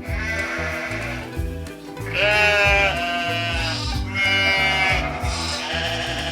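Goat bleating about four times, quavering calls under a second each with the loudest about two seconds in, over background music with a steady beat.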